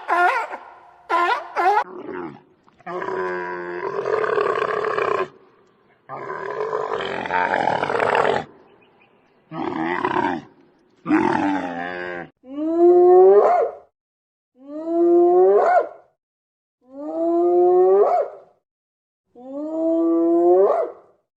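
Animal calls: a few short cries, then two long rough roaring calls, then a run of four similar calls that each rise in pitch, repeated about every two and a half seconds.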